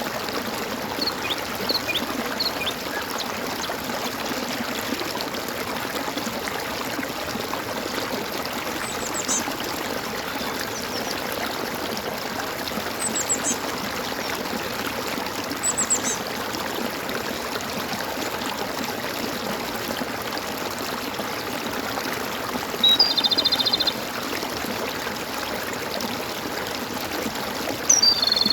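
Water gurgling and running steadily, with scattered short high chirps from birds. A louder trilling call of about a second sounds about 23 seconds in and again at the end.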